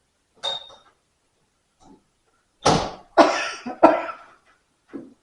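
A person coughing, three sharp coughs in quick succession a little past halfway, with a shorter sound about half a second in and another near the end.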